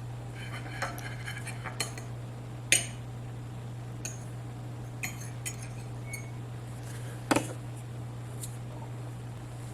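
Cutlery clinking and scraping against a dish of chicken casserole: a handful of separate clinks, the loudest about a third of the way in and about three-quarters through, over a steady low hum.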